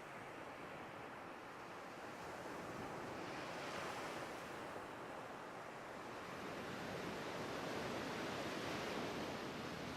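A steady rushing, surf-like noise that swells about four seconds in and again near the end, with no tone or beat in it.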